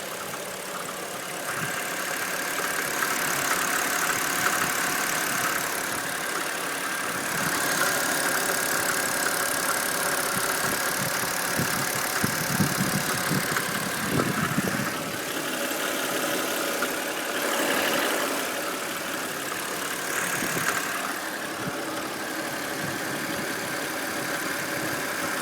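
BMW N52B25 2.5-litre straight-six idling steadily with a knock in it whose source the owner cannot pin down.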